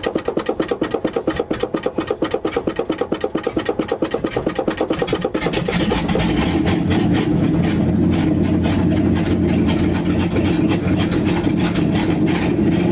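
1970 GMC pickup engine being cold-started with no exhaust, only open manifolds: it turns over in an even rhythm for about five seconds, then catches and settles into a steady, loud run.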